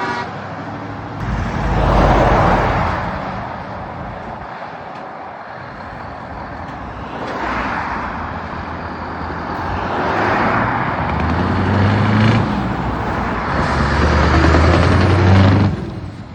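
Heavy trucks driving past one after another, each rising and falling as it goes by. A deep engine note is loudest near the end.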